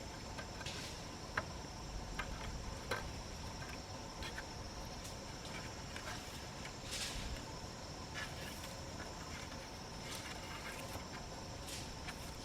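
Steady high-pitched insect chirring, with scattered sharp clicks and brief rustles over it.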